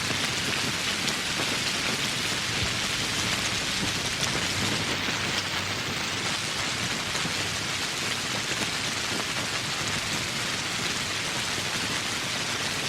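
Steady heavy rain falling on surfaces, a dense even hiss with many fine drop patters.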